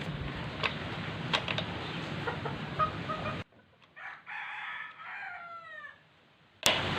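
A rooster crows once, a long call that falls in pitch at its end, about four seconds in. Before it comes a steady noisy background with scattered clicks and knocks.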